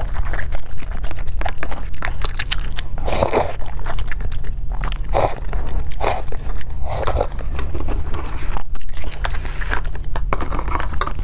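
Close-miked eating sounds: repeated chewing and biting with wet mouth noises, including sips taken from the edge of a plastic tub, and small clicks between them, over a steady low hum.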